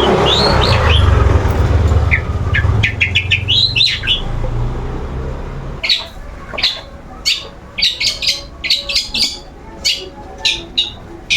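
Caged long-tailed shrike (cendet) calling: rising chirps over a low rumble for the first few seconds, then a rapid run of short, sharp calls.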